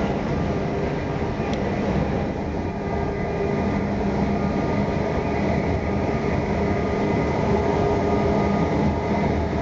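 Steady running noise inside a passenger train carriage: an even low rumble with a faint steady hum over it.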